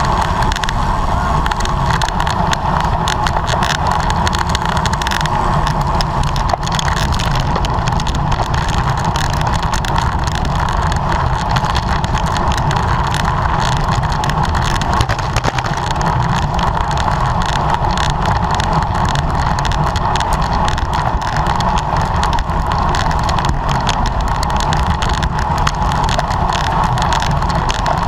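Steady loud rush of wind and road noise picked up by a camera riding on a racing bicycle at speed, with a constant fine crackle.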